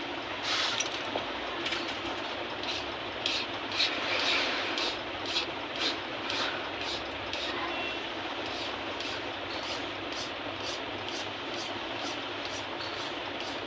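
Repeated rasping strokes of hand filing and smoothing on a harmonium key, a few strokes a second, louder in the first half, over a steady hiss.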